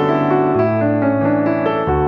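Background music: a piano playing a slow melody over sustained bass notes, changing note about every half second.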